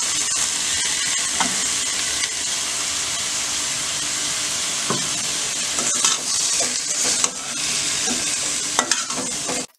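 Oil sizzling steadily in a stainless steel kadai as boiled raw jackfruit pieces fry with ground spice powder. A perforated steel spatula scrapes and taps against the pan a few times in the second half as the pieces are stirred. The sound cuts off suddenly near the end.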